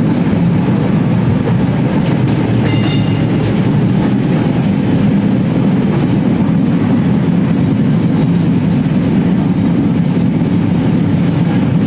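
Vintage Melbourne W2-class tram of the Waterfront Streetcar line running on its rails, heard from aboard: a steady, loud rumble of motors and wheels on track, with a brief high-pitched tone about three seconds in.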